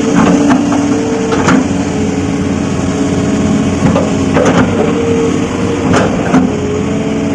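Hitachi excavator's diesel engine running steadily under load, with several sharp knocks as it works the ground.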